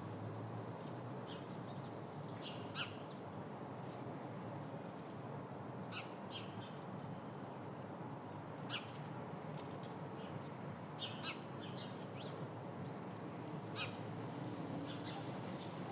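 Small birds giving short, sharp chirps, scattered irregularly every second or few, over a steady low hiss.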